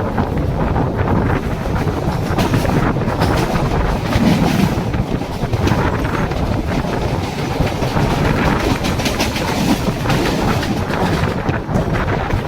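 Mumbai suburban local train running, with a steady rumble and wheels clattering over the rail joints.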